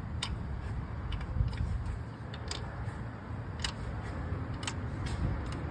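Light, irregular metallic clicks and ticks as an oil drain plug is spun out by hand under a car, over a low steady background rumble.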